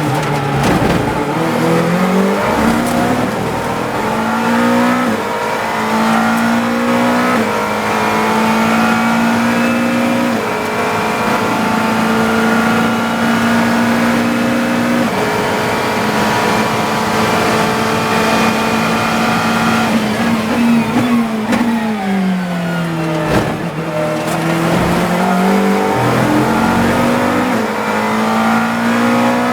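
GT3 race car engine heard from the cockpit at racing speed. It climbs through the gears with a small drop in pitch at each upshift and holds a high, steady note flat out. About two-thirds through it falls in pitch through a run of downshifts under braking, then climbs again as the car accelerates out of the corner.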